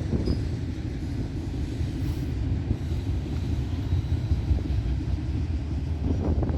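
Freight train rolling past on the tracks: a steady low rumble of wheels on rail, with a few sharp knocks near the end.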